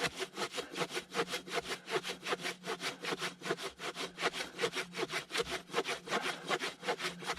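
Silky Zubat hand pruning saw cutting through a fallen tree trunk about ten inches thick, in rapid, even back-and-forth strokes.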